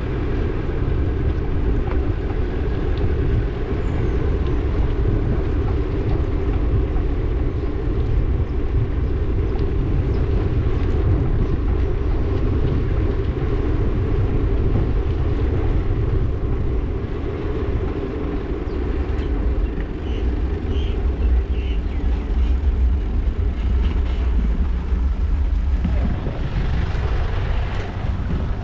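Steady low rumble of riding a bike along a road, with road and wind noise and no clear single event.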